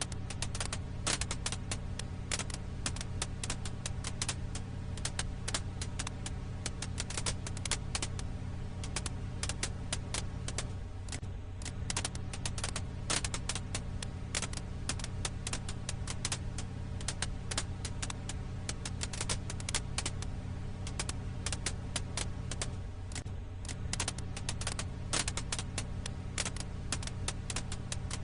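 Firewood crackling: a dense, irregular stream of sharp pops and snaps over a steady low hum, with a pattern that repeats about every twelve seconds.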